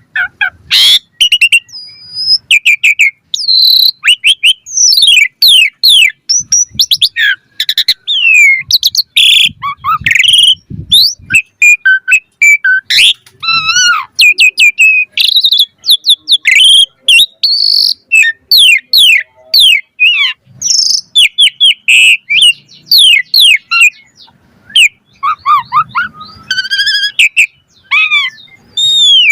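Asian pied starling (jalak suren) in full song: a long, varied run of rapid whistles, chirps and sliding notes with clicks in between, delivered with hardly a pause.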